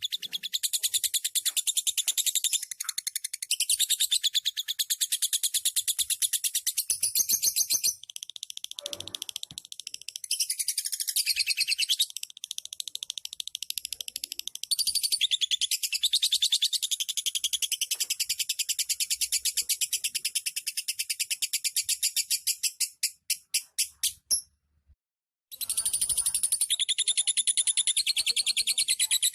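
Lovebird giving its long 'ngekek' chatter: rapid high-pitched chirps strung into long unbroken runs. The runs break briefly a few times, then stop for about a second near the end before the chatter starts again.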